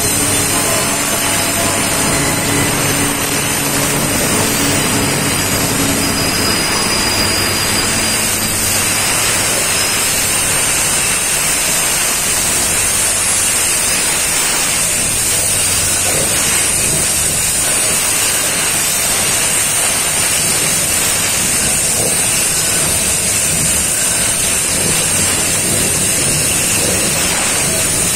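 Freight train rolling past close by: a steady, loud rushing noise of wheels on rails. A low engine hum fades out over the first several seconds.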